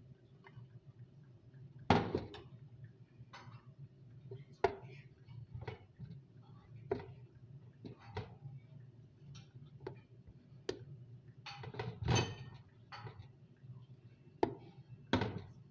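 Dishes and utensils knocking and clinking at irregular intervals, about a dozen sharp knocks, over a steady low hum.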